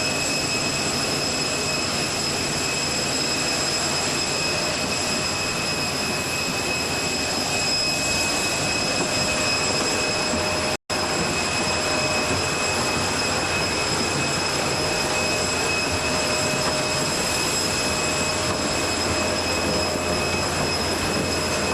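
Steady rushing noise with a constant high-pitched whine from a parked jet airliner's ground systems: the Boeing 747-400's air-conditioning and auxiliary power running. The sound cuts out for an instant about eleven seconds in.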